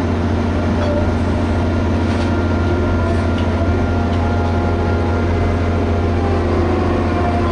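Liebherr HS8200 dragline excavator's diesel engine running steadily under load, with a deep constant hum and a whine above it that shifts in pitch near the end.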